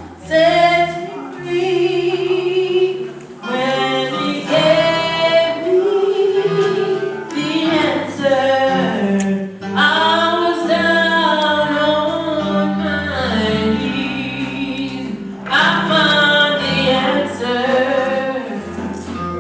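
A woman singing a gospel praise song, with blocks of held low notes sounding beneath her voice.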